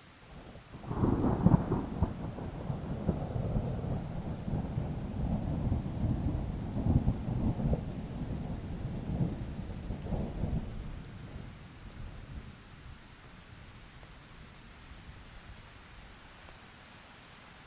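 A peal of thunder breaks about a second in and rumbles, with crackling peaks, for about ten seconds before dying away, over light rain hissing steadily.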